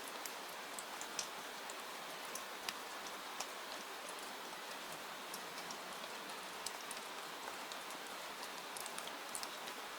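Steady rain falling, an even hiss with scattered sharp ticks of individual drops or pops.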